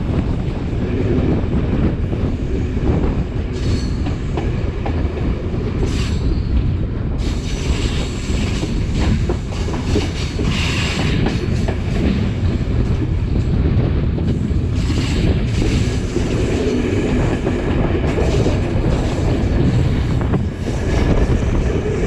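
Class S13 diesel multiple unit running along the line, a steady loud rumble with wheels clacking over rail joints.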